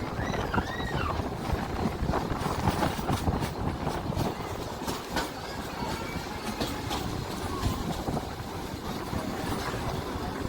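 Train rolling along the track, heard from on board: a steady rumble with scattered clicks and knocks, and a few short squeals near the start.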